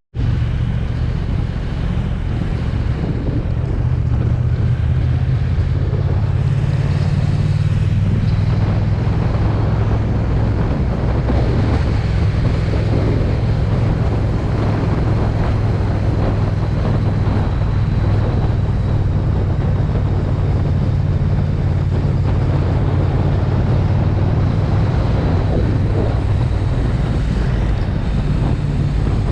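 Triumph Speed Twin's parallel-twin engine running steadily under way, heard from the bike with heavy wind noise on the microphone.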